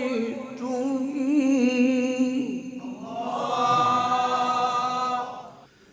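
A Quran reciter chanting in melodic tajwid style, drawing one syllable out into a long ornamented note with a wavering pitch. A second long held note follows and fades out near the end.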